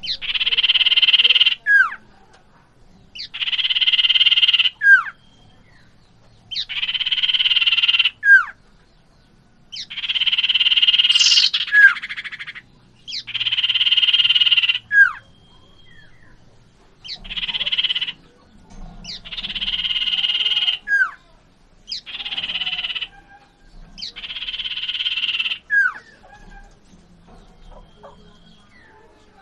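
Small songbird known in Indonesia as sirtu or cipoh calling over and over. Each call is a harsh, buzzy trill of about a second and a half that ends in a quick falling whistle, and it comes nine times, one every three seconds or so.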